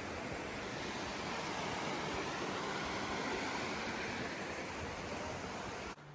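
Waterfall, a steady rush of falling water that cuts off abruptly near the end.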